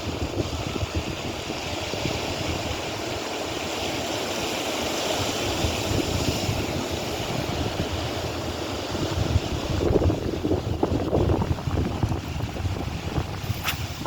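Wind blowing on the microphone outdoors, an uneven rush of noise that gusts, with one brief click near the end.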